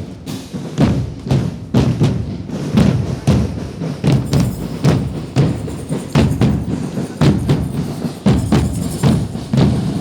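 Percussion music with a steady beat: heavy drum strokes about two a second.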